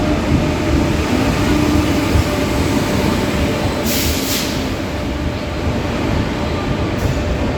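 Express passenger train pulling into a station platform, a steady rumble of wheels and coaches. A short high hiss about four seconds in, and a briefer one near the end.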